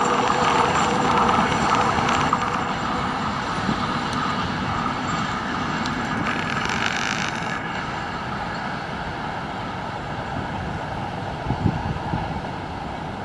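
Passenger train running past with a steady rumble that slowly fades away, mixed with wind on the microphone.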